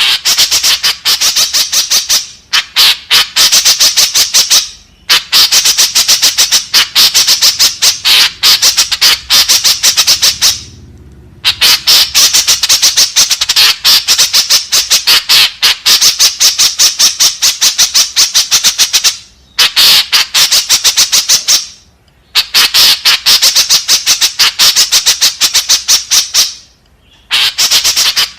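White-breasted woodswallow (kekep babi) calling: loud runs of rapid, harsh chattering notes, many to the second, in bouts of a few seconds with short pauses between them.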